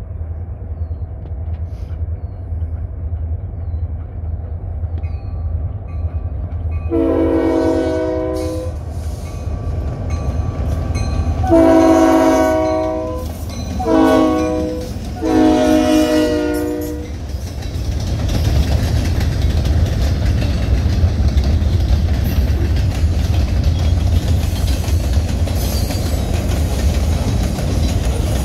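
Freight train's diesel locomotives approaching with a low engine rumble, then sounding a multi-note horn in four blasts, long, long, short, long: the standard grade-crossing signal. From about halfway through, freight cars roll past, their wheels clicking over the rail joints.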